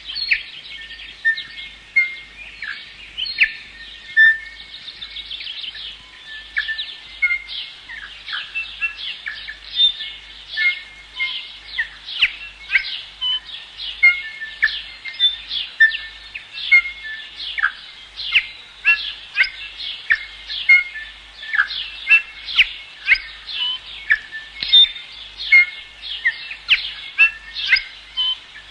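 A dense chorus of birdsong: many short, sharp chirps and quick falling calls, several a second, running on without a break.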